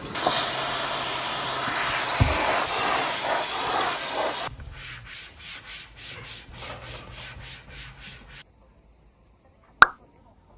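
A brush scrubbing a surface: first hard, continuous scrubbing, then lighter back-and-forth strokes at about three a second that stop suddenly. A single sharp click follows near the end.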